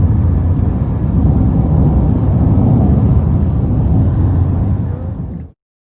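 Steady low rumble of a car in motion, heard from inside the cabin, cutting off abruptly near the end.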